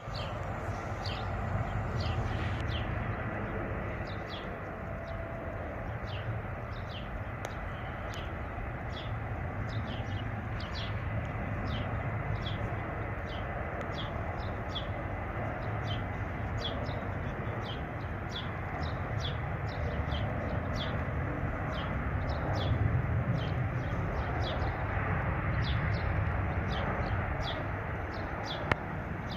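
Steady low rumble of a Boeing 737-800's CFM56 jet engines, swelling a little past the twenty-second mark, with short high chirps repeating a few times a second over it and one sharp click near the end.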